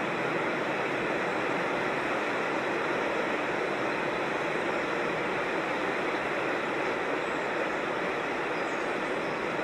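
Steady rush of water from a creek cascading over rocks, an even, unbroken noise.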